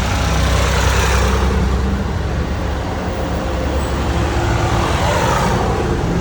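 Motor vehicle running, with a steady low engine rumble and a hiss of road or wind noise.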